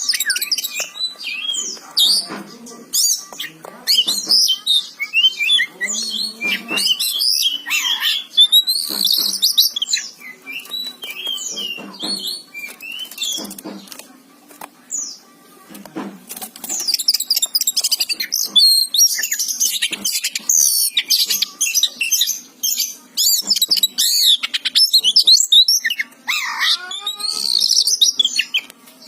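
Oriental magpie-robin (kacer) in full song: a loud, varied stream of rapid whistles and chattering notes, with a short lull about halfway through.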